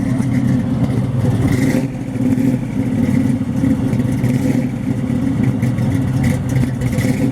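Car engine running at a steady idle, a loud, low and even note with a brief dip about two seconds in.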